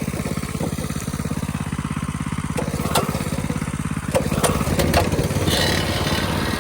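Small single-cylinder minibike engine running steadily at low speed, with a few sharp clicks and knocks partway through; it picks up slightly near the end.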